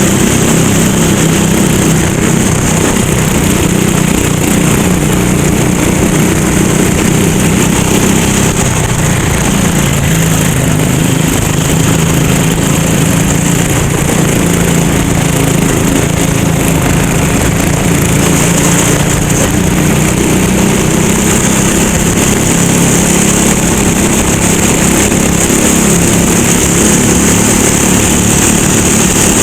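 Go-kart engine running loud and unbroken during a race, its note shifting a little in pitch over time, with a steady hiss above it.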